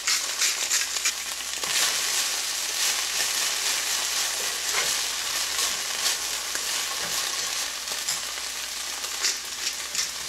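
Broccolini and sliced garlic sizzling in hot olive oil in a nonstick frying pan, crackling steadily, with a spatula stirring and tossing the stalks. The sizzle grows denser about two seconds in.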